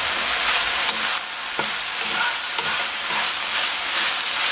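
Chicken mince, mushrooms and bean sprouts sizzling steadily in a frying pan over high heat. A slotted spatula stirs them, scraping and knocking lightly against the pan now and then.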